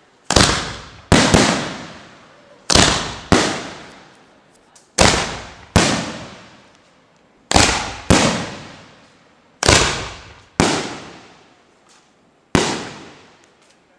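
Fireworks bursting: about eleven loud bangs, often two in quick succession, each trailing off in an echo that dies away over a second or so.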